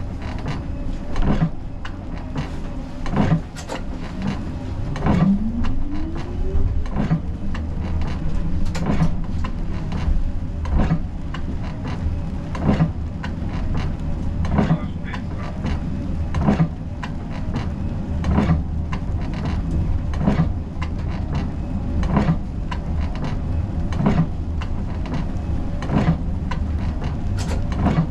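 Siemens Combino tram running on its rails, heard from the driver's cab: a steady low rumble with a regular click about every two seconds, and a brief rising motor whine about five seconds in.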